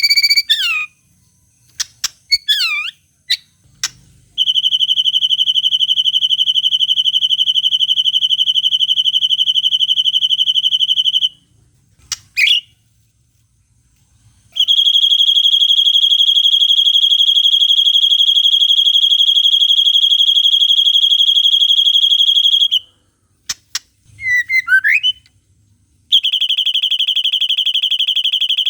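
White-rumped shama (murai batu) song: long, fast buzzing trills held on one steady high pitch for several seconds at a time, three of them, with short quick sweeping whistles in the gaps between. These are the long 'cililin' trills and harsh 'tembakan' bursts used as a masteran to train or provoke other shamas.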